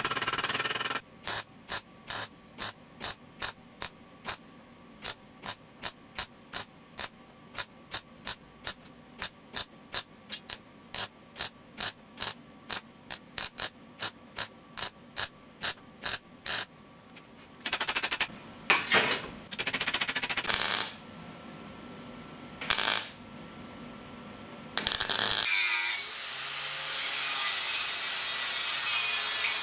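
A long run of sharp, evenly spaced mechanical clicks, about three a second, stops about two-thirds of the way through. A power tool then cuts metal in short bursts, and near the end it runs steadily with a wavering pitch.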